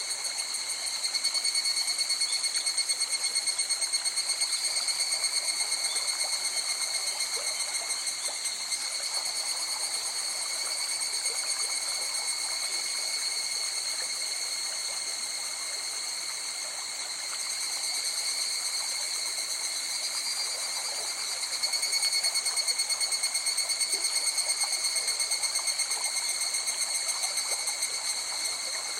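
A river running steadily, with a high-pitched, rapidly pulsing chorus of night-calling animals over it, louder near the start and again near the end.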